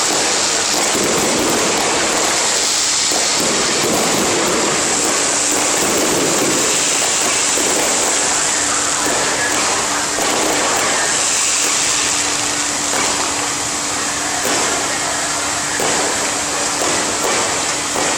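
Strings of firecrackers going off in a dense, unbroken crackle that sounds like heavy rain. A steady low hum joins in about eight seconds in.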